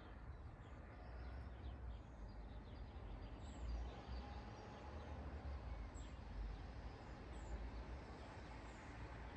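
Faint birds chirping: scattered short, high chirps now and then over a steady low rumble and background hiss of outdoor noise.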